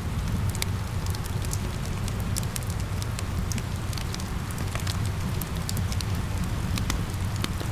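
Wood fire crackling, with many sharp snaps and pops over a steady low rumble, mixed with rain falling.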